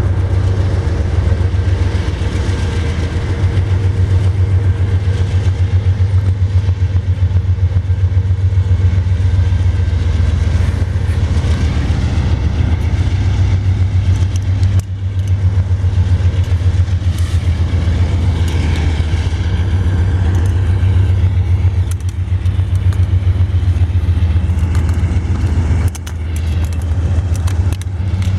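Diesel locomotive engines of a BNSF freight train running, a deep steady drone with fast regular pulsing, briefly dipping twice.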